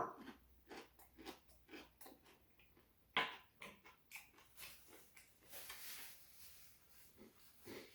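Close-up eating sounds of someone eating rice cake ramen: irregular wet chewing and mouth clicks, a few every second, with a longer noisier stretch about halfway through.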